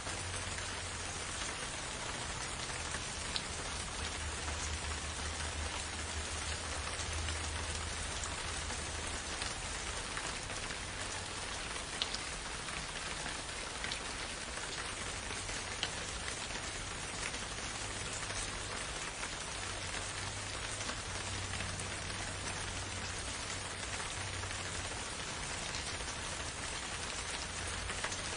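Steady rain falling in a forest, an even hiss with individual drops ticking here and there, over a low continuous rumble.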